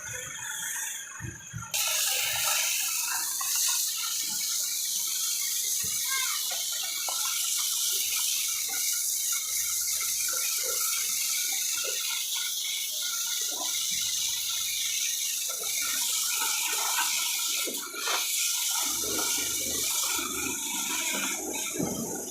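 A jet of water spraying steadily onto a truck during a wash. The spray starts abruptly about two seconds in.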